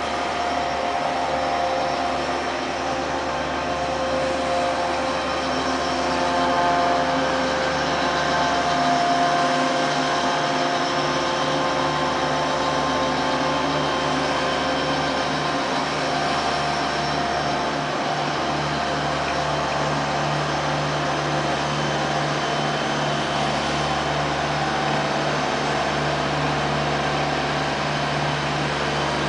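Freight cars rolling steadily past: the continuous rumble and rush of steel wheels on rail, with a few thin steady tones ringing above it.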